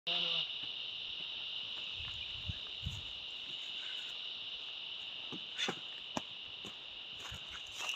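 Steady, high-pitched insect chorus: an unbroken shrill drone, with a few scattered clicks and soft low thumps mixed in.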